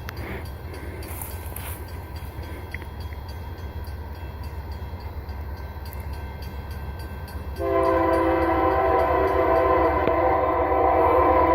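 Low, steady rumble of an approaching freight train's diesel locomotives; about two-thirds of the way in, the lead locomotive's multi-note air horn starts a long, loud blast that is still sounding at the end.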